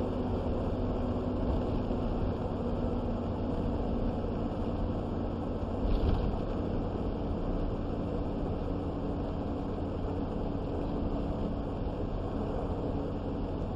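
Steady road and engine noise heard inside a moving vehicle's cab on a rough road, with a brief louder knock about six seconds in.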